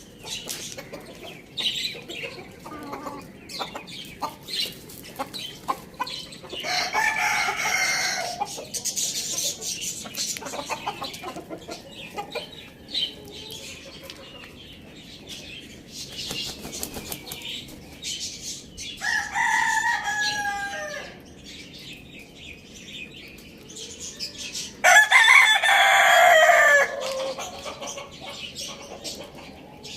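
Rooster crowing three times, each crow about two seconds long: one about a quarter of the way in, one about two-thirds through, and the loudest near the end. Chickens cluck softly in between, with scattered small clicks.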